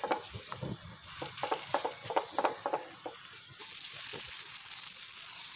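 Paratha frying in oil on a hot black iron pan: a steady sizzle with frequent short crackling pops, the hiss growing louder about three and a half seconds in.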